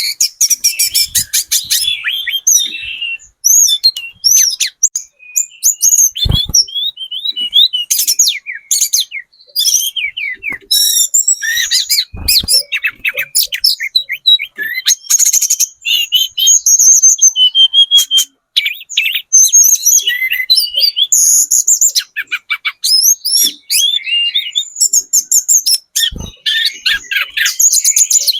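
Tledekan gunung songbird singing without pause: a fast, varied run of high chirps, rapid trills and whistled notes. A few dull thumps come through, about 6 s, 12 s and 26 s in.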